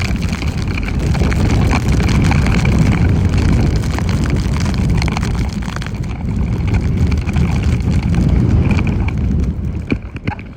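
Wind rushing over the microphone and a snowboard sliding fast through snow, a loud dense rumble with scraping chatter. It dies down near the end as the board slows.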